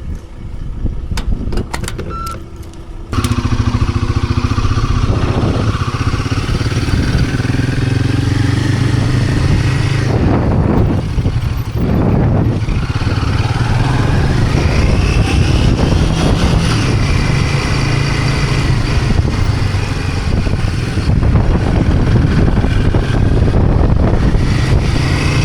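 Royal Enfield Himalayan 450's single-cylinder engine running steadily as the motorcycle rides along. It comes in loud suddenly about three seconds in, and its note shifts briefly about ten to twelve seconds in.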